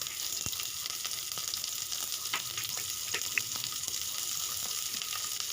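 Chopped onion frying in hot oil in a kadai: a steady sizzle with scattered small crackles.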